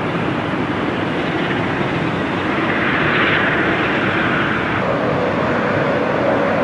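Jet airliner's engines running: a steady rushing noise, with a hiss that swells in the middle and a steady whine that sets in about five seconds in.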